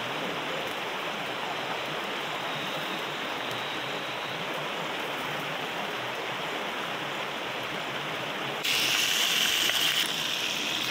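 Steady rushing water. Near the end it suddenly turns louder and hissier for about a second, then eases a little.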